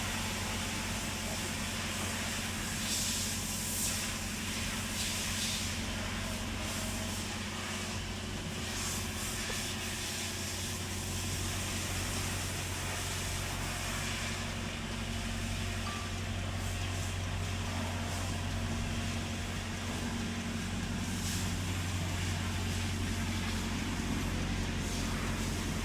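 A vehicle engine running steadily: a low, even hum with a constant hiss over it.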